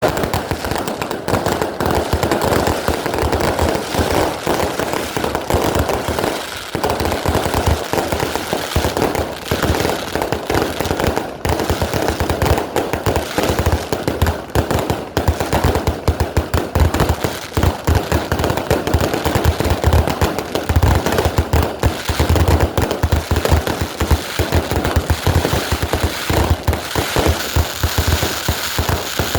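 Boxed fireworks (a firework cake) firing a rapid, unbroken barrage of sharp bangs, many shots a second, with crackle between them.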